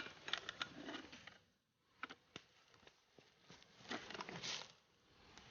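Faint scattered clicks and light rustling, with a denser patch of rustling about four seconds in.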